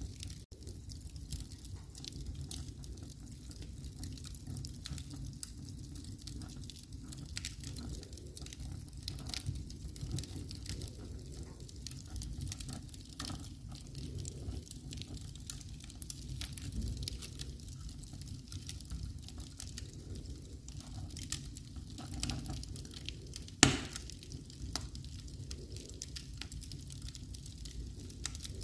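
Wood fire crackling in a fireplace: a steady low rumble of flames with scattered small pops, and one much louder sharp pop late on.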